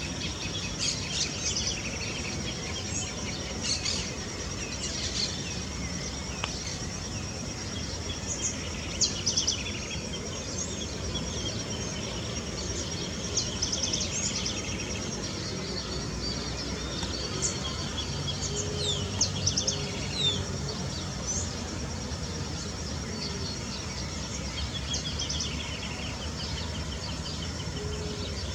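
Small birds chirping and twittering in short, scattered calls, over a steady high-pitched insect-like drone and a low background rumble.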